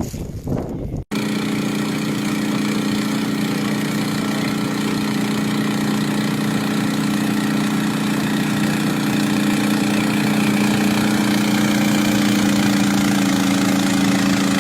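Gusty wind noise that cuts off about a second in, followed by an engine running steadily at idle, an even low hum that holds unchanged.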